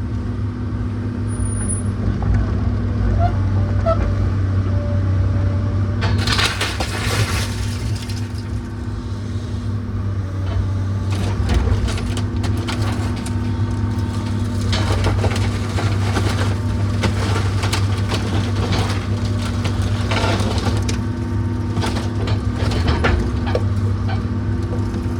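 A heavy machine's engine runs steadily while the old house's wooden structure is pulled apart. From about six seconds in come repeated cracking, splintering and crashing of timber and debris.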